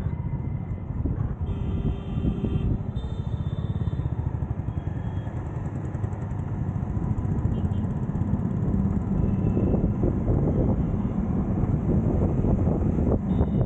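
City road traffic heard from a moving vehicle: a steady rumble of engines and road noise that grows a little louder in the second half. Short vehicle horn beeps sound about one and a half seconds and three seconds in, with fainter ones later.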